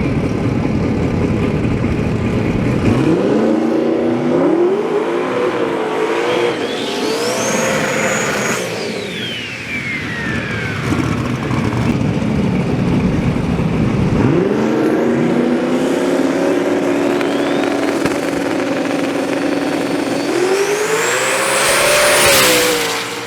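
Drag-racing car engines revving and accelerating hard, twice, each time with a high whine that rises and then falls away. There is a loud rush near the end.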